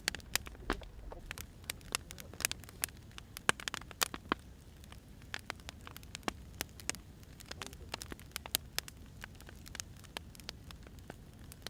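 Burning firewood crackling, with irregular sharp pops and snaps over a steady low hiss.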